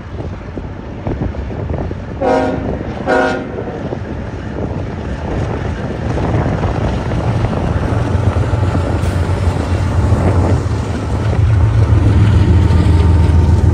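BNSF diesel freight locomotives approaching with a steady low engine rumble, the horn sounding two short blasts about two and three seconds in. The rumble grows louder near the end as the locomotives pass close.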